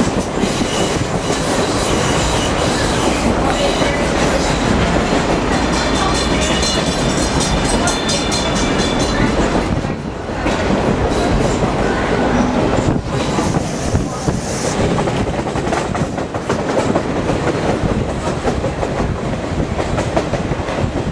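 Passenger train running along the track, heard from aboard: a steady rumble with the clickety-clack of the wheels on the rails, dipping briefly about halfway through.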